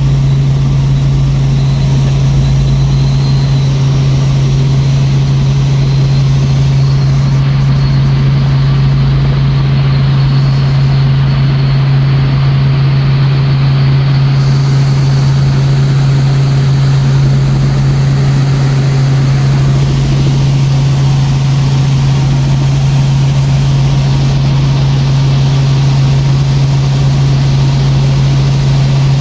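Helicopter in flight, heard from inside the cabin: a loud, steady drone with a strong low hum that does not change.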